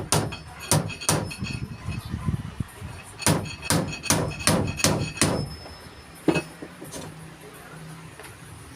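Hammer driving nails into wood, each strike with a metallic ring. A few strikes open the clip, then a run of six about two and a half a second in the middle, then two more spaced out before it stops.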